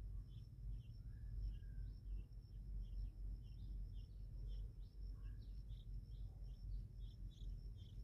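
Outdoor ambience: a steady high insect whine under a bird chirping over and over, about two to three short chirps a second, with a couple of soft whistled notes about a second in and past the middle. A low rumble runs underneath.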